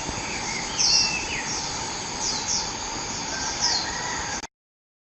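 Wild bird chirping in short, high, falling notes about once a second, over a steady high drone of insects; the sound cuts off suddenly near the end.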